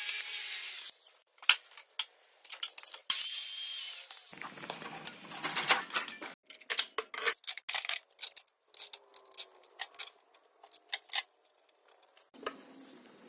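Woodworking tools at work: two short hissing bursts, then a scattered series of sharp taps and clicks.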